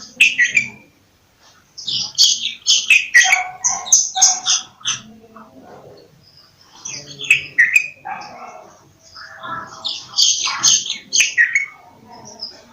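Bulbul calling in several bouts of quick, chattering chirps and whistled notes, with short pauses between the bouts.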